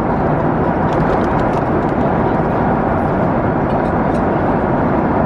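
Steady engine and airflow noise of a Boeing 767-400ER, heard from inside the passenger cabin, even in level throughout.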